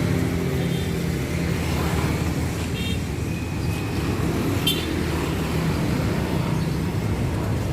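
A motor vehicle engine running steadily close by, a low rumble of road traffic, with a couple of faint short high chirps partway through.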